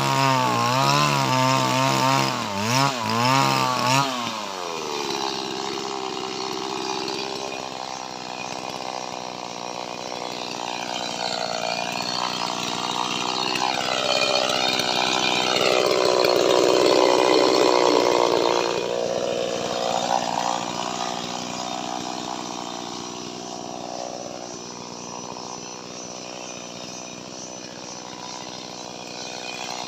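Small Stihl chainsaw running: its engine pitch rises and falls in quick throttle blips, then drops to a steady lower note about four seconds in. A louder, rougher sound builds in the middle and fades again.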